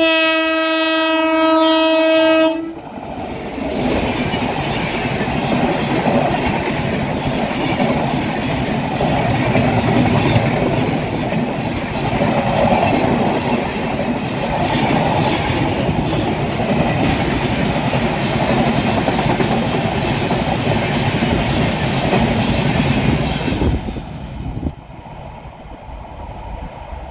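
Locomotive horn sounding one steady blast for about two and a half seconds, then an express train running past at speed, with a loud rumble of wheels on rail. The passing noise drops away sharply near the end.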